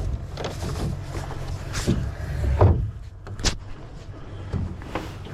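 Irregular knocks and clatters from a sailing dinghy's hull and fittings, about six in all, over a steady low rumble.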